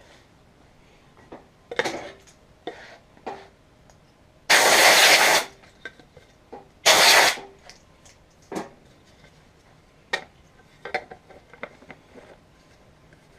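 Plastic parts of an upright vacuum's filter stack clicking and knocking as they are handled and fitted together. Two loud, short bursts of hissing, rushing noise come about two and a half seconds apart, the first lasting nearly a second.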